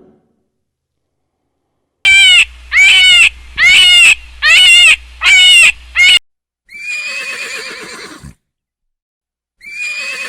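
Animal calls: a run of six short, loud calls, each rising and falling in pitch, starting about two seconds in after silence. A longer, quavering call follows, and another begins near the end.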